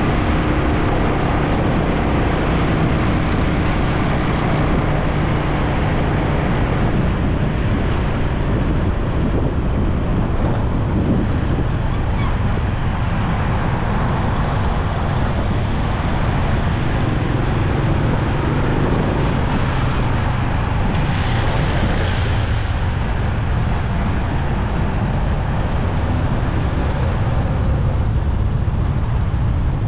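Motorcycle engine running steadily while riding in traffic, with road and traffic noise around it. Another engine's drone stands out in the first few seconds.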